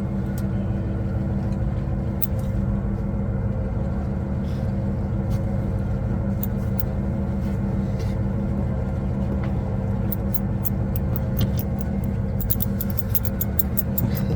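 Boat engine running steadily with a low hum. A run of faint, high clicks comes in over it in the last few seconds.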